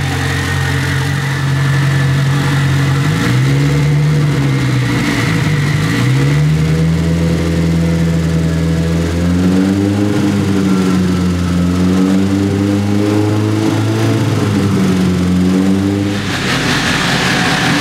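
Nissan GTi-R's rebuilt SR20VET four-cylinder turbo engine running with its revs held above idle, rising and falling slowly several times. A brighter hiss joins near the end.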